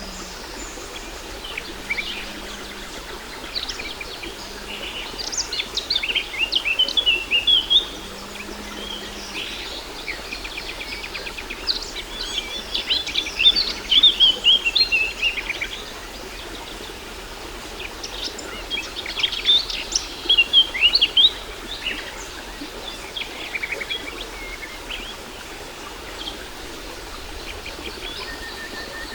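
Waterfall rushing steadily, with songbirds chirping and singing over it in several lively bursts of quick notes.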